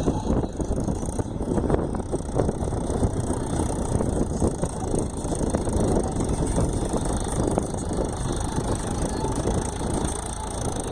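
Tractor engine running steadily with a dense, rapid chugging.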